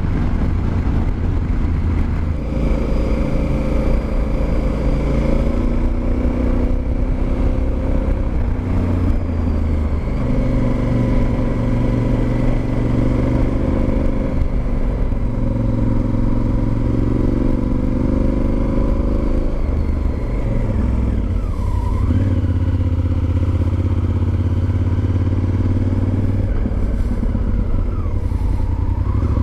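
Honda Varadero XL1000's V-twin engine under way, its revs rising and falling repeatedly through a series of gear changes.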